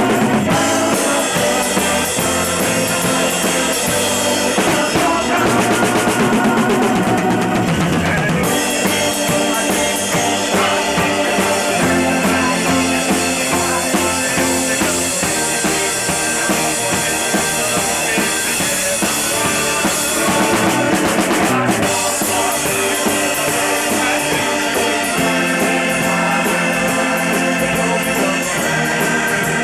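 Rock band playing live: an instrumental passage with a full drum kit, snare and bass drum driving a steady beat, under the rest of the band, with no singing.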